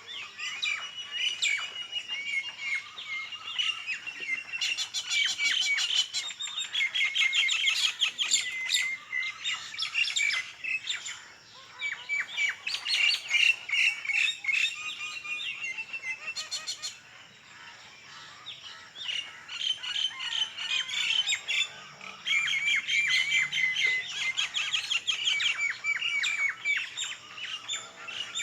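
Small birds chirping and chattering in quick, dense runs of high notes, in bouts separated by short lulls.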